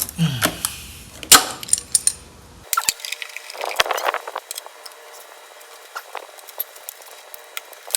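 Sharp metallic clicks and knocks of vice grips and hand tools on parts of a Type 4 VW engine being taken apart, the loudest about a second in, with a brief scrape near the middle and light ticks after.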